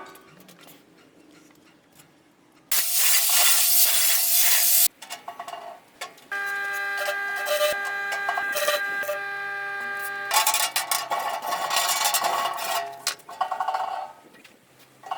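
Power tool working the steel cladding in separate runs: a loud burst of hissing cutting noise, then a steady motor whine with a pitched hum lasting about four seconds, then more cutting noise.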